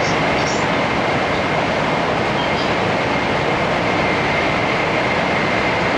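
Steady running noise of a 700 series Shinkansen heard from inside the passenger car: an even rush with a faint high whine running through it.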